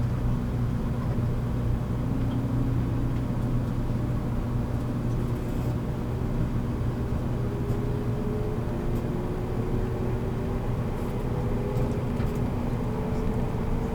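A JR Kyushu 783 series electric train running, heard from aboard the motor car MoHa 783-13: a steady low hum with a motor whine. The whine rises slowly in pitch from about halfway through as the train gains speed.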